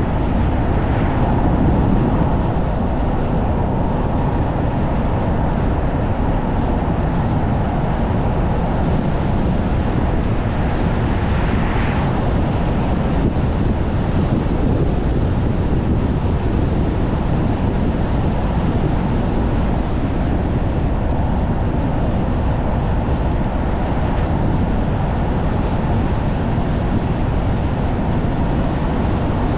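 Strong wind rushing and buffeting against a moving car, over a steady drone of road noise.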